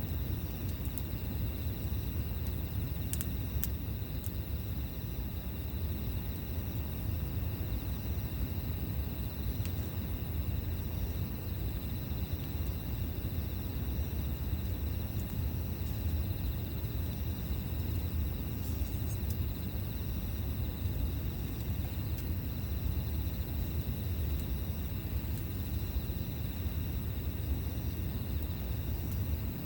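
Campfire burning with a few faint crackles over a steady low rumble, while insects chirr steadily at a high pitch.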